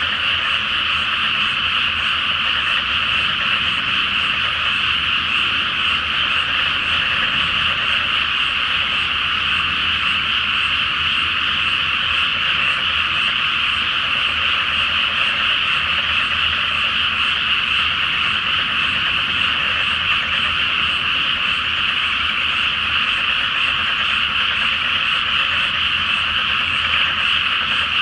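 A dense chorus of many frogs calling together from a flooded rice paddy in spring, a steady, unbroken din of croaking voices.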